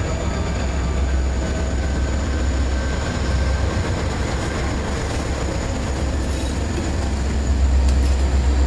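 Coal train's cars rolling past, a steady low rumble of wheels on the rails that grows a little louder near the end.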